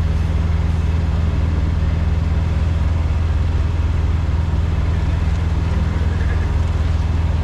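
Peterbilt semi truck's diesel engine running steadily, a constant low drone.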